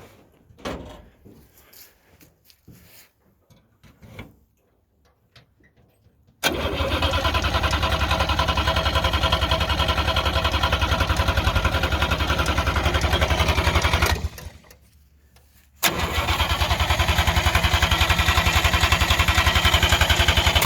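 Starter cranking the 1958 DKW's three-cylinder two-stroke engine in two long, even bursts, about eight seconds and then, after a short pause, about five more, without the engine firing: it has not run in a long while.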